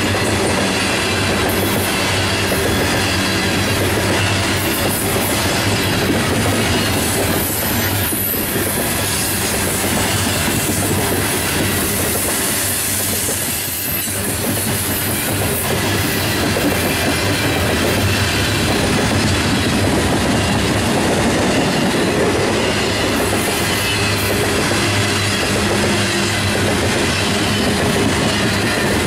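Coal hopper cars of a freight train rolling past close by: a steady, loud rumble and clatter of steel wheels on the rails that continues unbroken.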